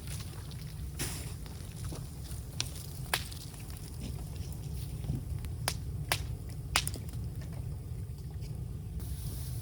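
Bamboo burning in an open fire, giving off a handful of sharp, irregular cracks and pops over a steady low rumble.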